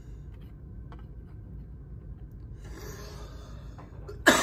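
Soft rustling for about a second midway as trading-card packs are handled, then a sudden loud cough right at the end.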